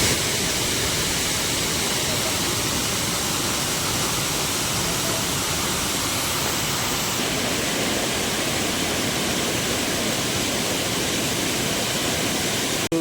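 Rani Duduma waterfall: a loud, steady rush of falling water with no breaks.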